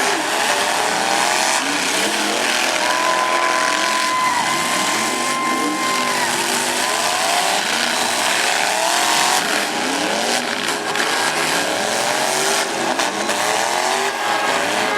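Several demolition derby trucks' engines revving hard at once, their pitches climbing and falling over and over. A steady high squeal is held for about three seconds, starting about three seconds in.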